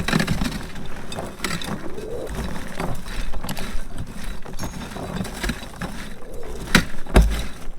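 Hot popcorn being stirred and tossed in a bin over a stainless steel sifter to cool it and shake out the unpopped kernels: a dense rustle of popped corn with scattered clicks and rattles, and a heavy thump about seven seconds in.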